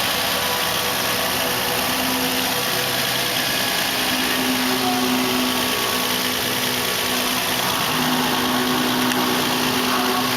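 2007 Nissan Murano's 3.5-litre V6 idling steadily with an even, unchanging hum.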